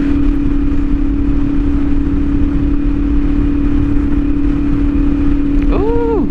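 CFMOTO 450SS parallel-twin engine running at a steady cruising speed through an aftermarket slip-on exhaust, with a steady drone and a low rush of wind and road noise. Near the end a separate short tone rises and falls.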